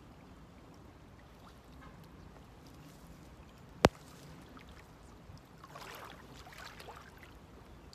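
Faint water sounds with a single sharp click about four seconds in, the loudest moment, then a few seconds of splashing water.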